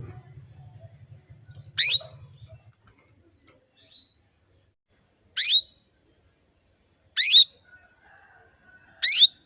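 Female canary calling: four short, sharp chirps, each sweeping steeply down in pitch, spaced about two seconds apart. These are the calls of a hen in breeding condition calling for a male.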